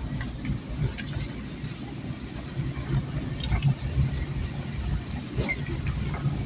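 A vehicle engine running, with a steady low rumble of engine and road noise while on the move, and a few faint clicks.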